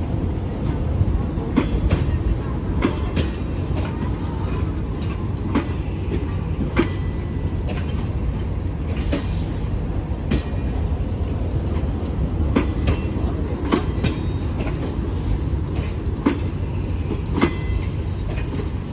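Passenger train moving through a station: a steady low rumble with irregular clicks and clanks of wheels over rail joints, and a few brief faint wheel squeals.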